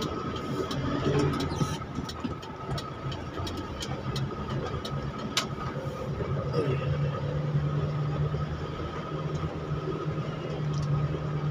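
Car engine running with a steady low hum and road noise, heard from inside the car while driving, the hum growing stronger about halfway through. Faint scattered clicks sound over it.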